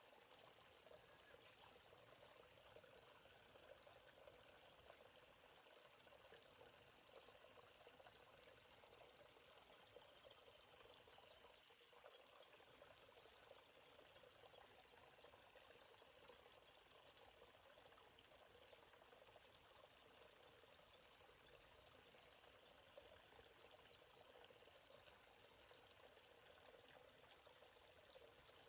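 Steady, high-pitched chorus of insects, with a faint flowing stream beneath it.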